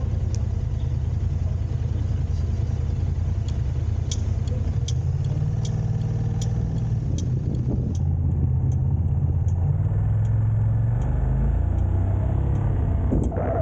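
A vehicle engine running steadily as a low drone, a little louder in the second half, with scattered light clicks.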